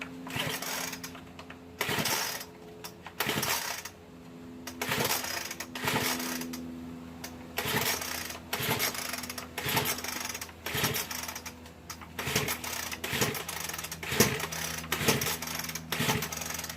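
Ryobi four-stroke leaf blower being pull-started over and over. The recoil starter cord is yanked about fourteen times, a little over a second apart, and the engine never catches: it is flooded.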